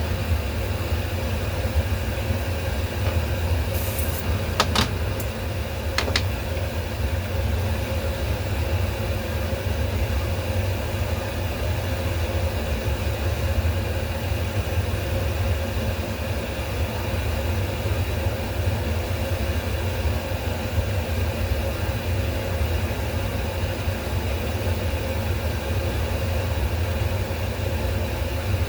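Steady low machine hum with a faint constant tone, broken by a few short clicks about four to six seconds in.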